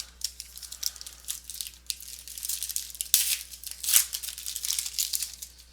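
Crinkling and tearing of a trading-card pack wrapper being opened and handled, a run of short crackles.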